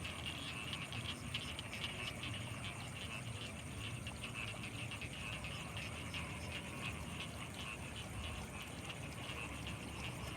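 Night chorus of frogs calling from rice fields: a dense, continuous, fast-pulsing chatter, with a steady high-pitched insect drone above it and a low rumble underneath.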